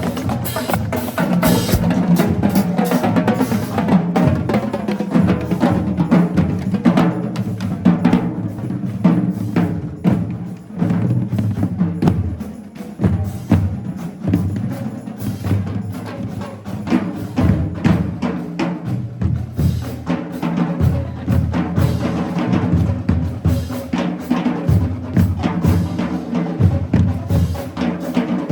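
High school marching band drumline playing a cadence: rapid snare drum strokes over pounding bass drums, with wood-block-like rim or stick clicks.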